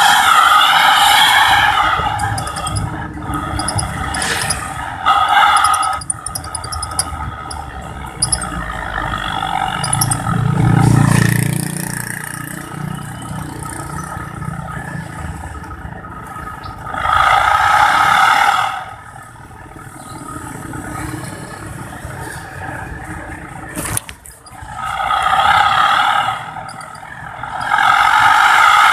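Pickup truck engine revved in bursts through a homemade whistle exhaust tip, each rev giving a loud wavering whistle-like squeal, with quieter engine running between the revs.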